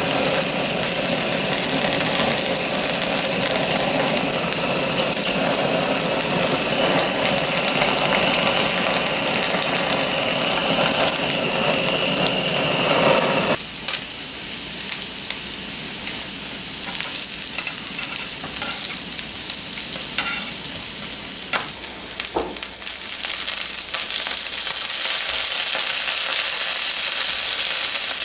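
Food sizzling in a hot frying pan. The sizzle cuts off abruptly about halfway through, gives way to quieter sizzling with a few sharp clicks, and comes back loud near the end.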